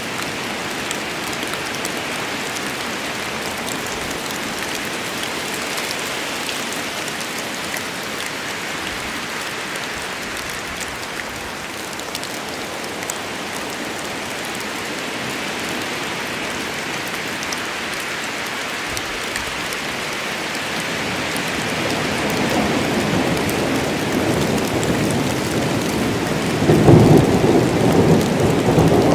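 Steady rain falling on a forest, with thunder rumbling in near the end, the deep roll building from about 21 seconds in and loudest in the last few seconds.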